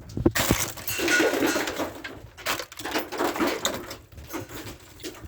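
Icicles being struck repeatedly, with sharp knocks and crunching, clattering ice and snow. The icicles are thick and hard to break.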